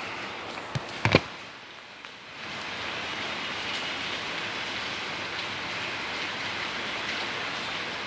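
Steady rain falling, an even hiss. About a second in there are a few sharp knocks, and the sound drops briefly before it comes back steady.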